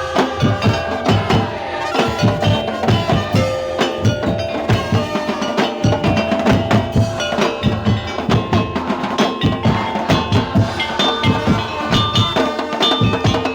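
Madurese daul (tong-tong) music: a dense, fast beat of wooden percussion and drums under a bell-like melodic line.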